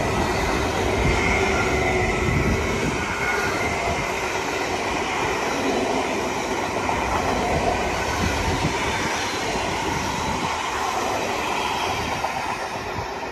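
A long multi-set DSB IR4 electric train running past on the track, making a steady loud rumble and rush of wheels on rail. The sound eases slightly near the end as the last car goes by.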